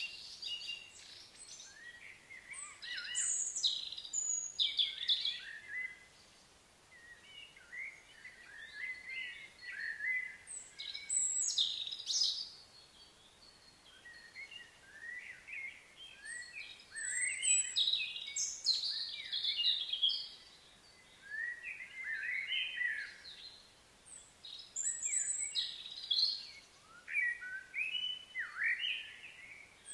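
Several wild birds chirping and calling, in clusters of short high notes and trills with brief lulls between them.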